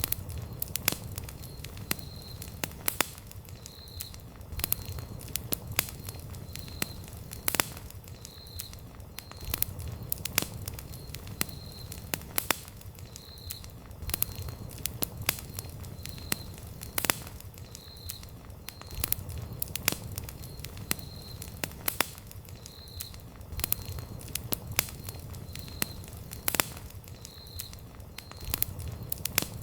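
Wood campfire crackling and popping: irregular sharp snaps over a soft low rumble of flames, with some louder pops standing out.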